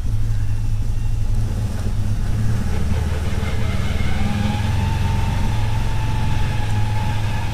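CFMOTO UForce 1000 side-by-side's V-twin engine running under way, steady, with a thin whine joining about halfway through.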